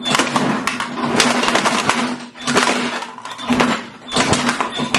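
Lawnmower shredding a plastic toy under its deck: repeated bursts of crunching and clattering, about one a second, over the mower's steady hum.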